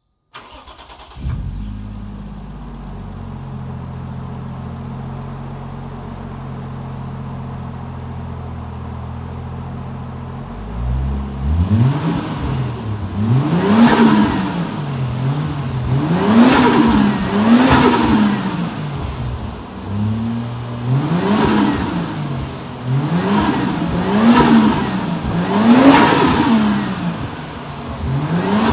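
Toyota 1JZ turbocharged straight-six catches about a second in and idles steadily. From about eleven seconds in it is blipped up and down about a dozen times, with a fluttering chatter from the turbo each time the throttle snaps shut. This is compressor surge flutter ("waaaa stututu").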